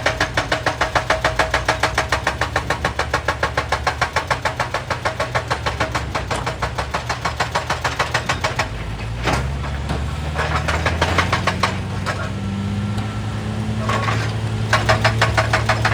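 Excavator-mounted hydraulic breaker hammering rock in rapid, even blows, about six or seven a second. The hammering stops about nine seconds in, leaving the excavator's diesel engine running and rising in pitch. A short burst of hammering comes near the end.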